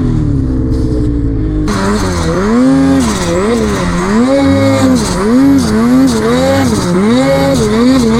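Snowmobile engine running hard. Its pitch drops over the first second or two, then rises and falls about once a second as the throttle is worked on and off.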